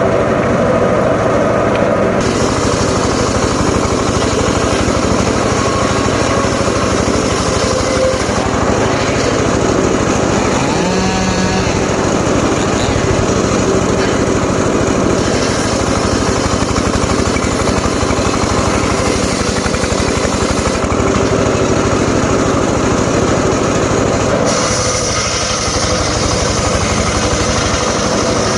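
Homemade circular saw rig running steadily under power, its engine and spinning blade making a continuous loud mechanical noise, with a brief rise in pitch about eleven seconds in.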